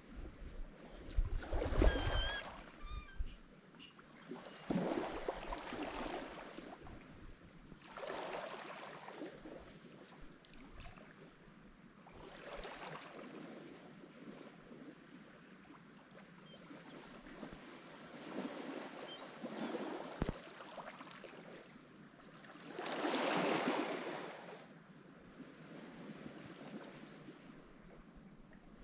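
Lake Michigan waves breaking and washing up on the shore, one surge after another every few seconds, swelling and falling away. The biggest breaks come about two seconds in and again late on.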